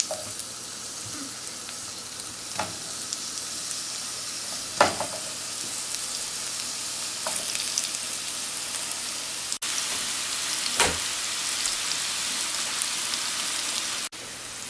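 Maitake (hen of the woods) mushroom pieces sizzling as they fry in butter, olive oil and minced garlic in a nonstick pan: a steady hiss, broken by a few short knocks as more pieces go into the pan.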